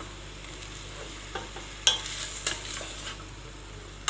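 Shelled green fava beans frying in ghee with garlic in a pot, a steady sizzle, while a spoon stirs them and knocks against the pot a few times, loudest about two seconds in.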